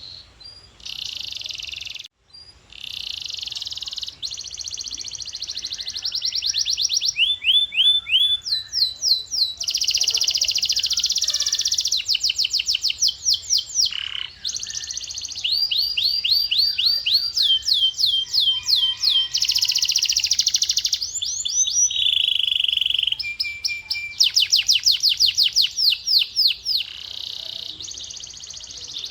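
Male canary singing a continuous song of rapid trills, each a run of quickly repeated high sweeping notes, switching to a new trill every second or two.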